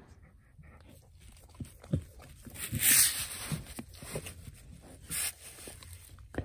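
A dog moving on soft bedding, with scattered small clicks and rustles. A loud breathy hiss comes about three seconds in and a shorter one near five seconds.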